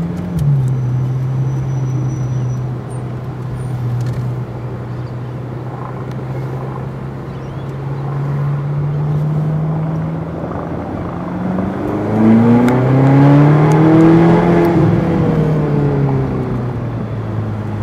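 Ferrari California's V8 engine heard from the open cabin while driving in traffic. The engine note drops sharply right at the start as the car changes gear, then holds steady and slowly rises. About twelve seconds in it climbs strongly under harder acceleration, the loudest part, and drops again with another gear change around fifteen seconds.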